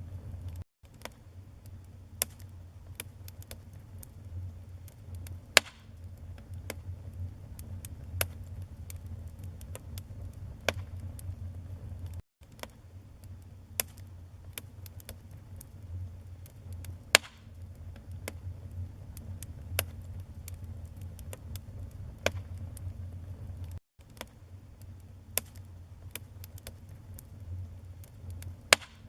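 Wood fire burning: dense crackling and popping over a low steady roar, with a few sharper, louder pops. The sound cuts out for a split second three times.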